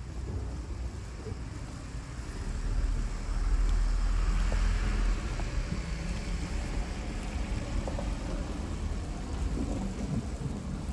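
A vehicle passing on a snowy street, its rumble and tyre hiss swelling from about three seconds in and fading after five, over a steady low wind rumble on the microphone.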